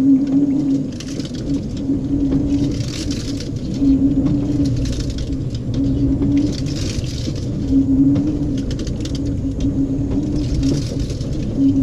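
LG 18 kg washing machine agitating a heavy load of clothes. The motor hums in short strokes of about a second each, with pauses between them, and water and wet laundry swish every second or two.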